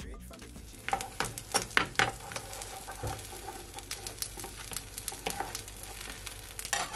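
A beef-and-cheese-filled tortilla sizzling in oil in a nonstick pan, a steady crackling hiss with sharp pops and clicks, several of them about a second in. A stainless-steel slotted spatula presses and slides the tortilla against the pan.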